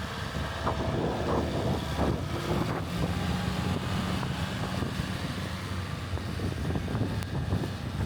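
Storm wind buffeting the microphone in uneven gusts over a low, steady rumble.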